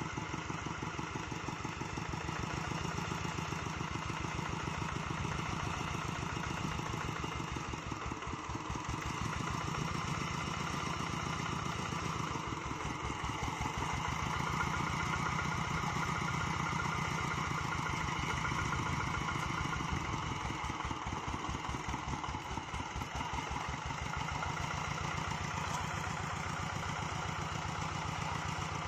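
Single-cylinder diesel engine of a two-wheel hand tractor running steadily, with an even, fast firing rhythm that swells slightly in loudness now and then.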